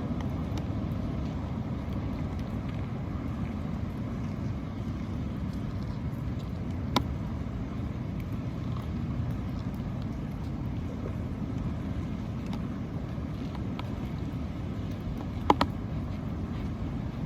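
Steady low rumbling background noise outdoors, with a sharp click about seven seconds in and another near the end.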